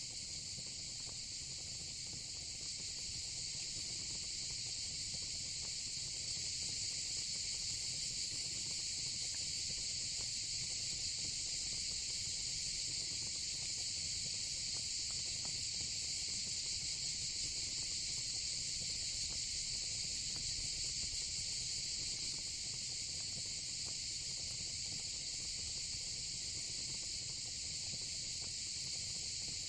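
Steady, unbroken chorus of crickets and other night insects, with a faint crackle of a fire pit underneath.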